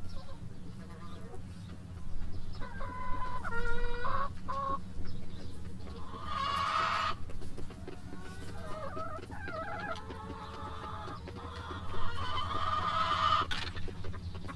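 Backyard hens clucking and calling in several separate bouts, over a steady low hum.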